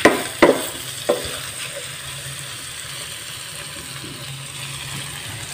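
Food sizzling in an aluminium wok as a metal spatula stirs it, with three sharp knocks of the spatula against the pan in the first second or so, then a steady sizzle. The food is being fried down until it turns firm and crisp.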